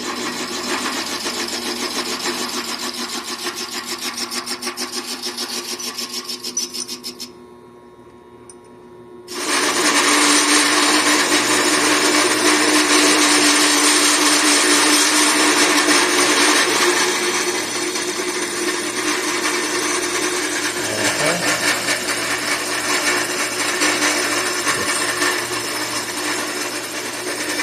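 Vevor 7x14 mini metal lathe turning a steel washer, its cutting tool scraping into the steel over the spindle and motor hum, with the motor slowing under the cutting load. The cut eases off for about two seconds partway through, then resumes louder.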